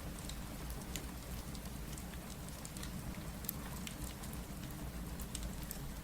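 Steady rain ambience, a continuous patter with a low rumble, mixed with a fireplace's scattered sharp crackles and pops.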